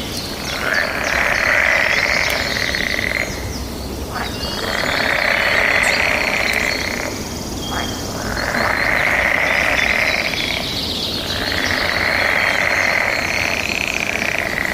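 A chorus of frogs calling together in four long swells of about three seconds each, with short lulls between. Small birds chirp high above the chorus.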